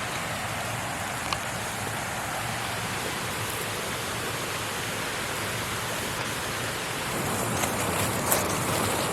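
Steady rushing hiss of a creek waterfall, growing a little louder near the end, with a couple of brief sharp clicks.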